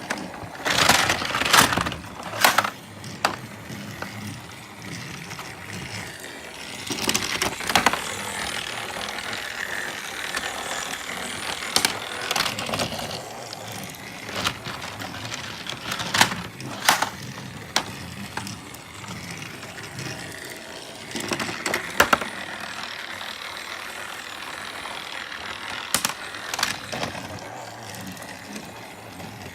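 Battery-powered Thomas TrackMaster toy train running on plastic track: a steady small-motor whirr and gear rattle, broken every few seconds by sharp clicks and clatters from the track and the Twisting Tornado set's spinning mechanism.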